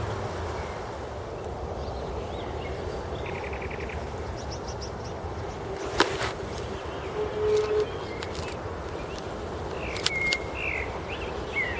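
Outdoor ambience with a steady hiss, broken by a few brief bird chirps: a short fast trill about three seconds in and quick chirps near the end. There is one sharp click about halfway through.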